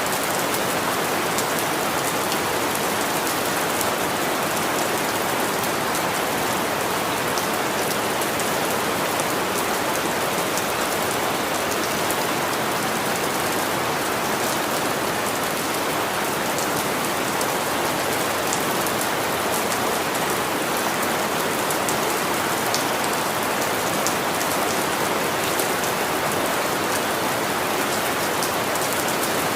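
Steady rain falling, a dense even hiss of drops with many small individual drop ticks on a surface.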